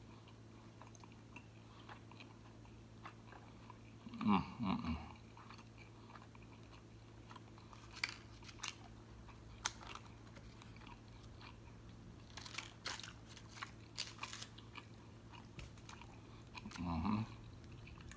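Close-miked chewing and biting of a steak quesadilla: soft crunches and wet mouth clicks, with two louder bursts of mouth noise, about four seconds in and near the end.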